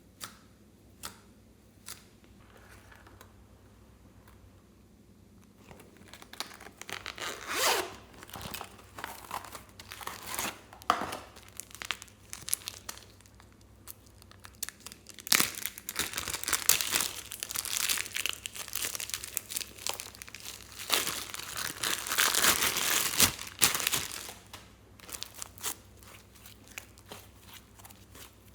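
Slime being worked by hand: stretched and pulled apart with irregular tearing, crackling and crinkling. A few isolated clicks at first, then the crackling builds and is busiest in the second half before thinning out near the end.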